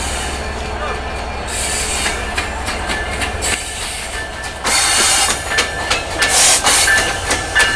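Passenger train rolling into a station: its wheels clack over the rail joints, the clicks getting louder and more frequent in the second half. A thin wheel or brake squeal comes in near the end.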